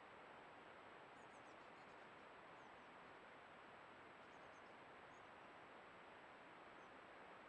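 Near silence: steady hiss with faint, short high-pitched bird chirps every second or two.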